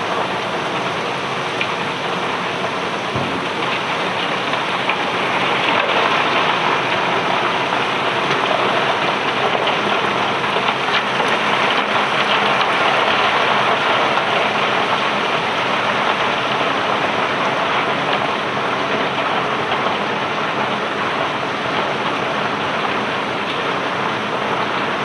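Load of cobblestones pouring off a barge, a dense continuous rattling rush that swells louder in the middle and eases again.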